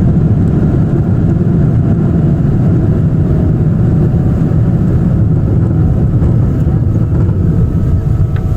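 Boeing 777-300 cabin noise: a loud, steady low rumble of the jet's engines and airframe, heard from inside the cabin.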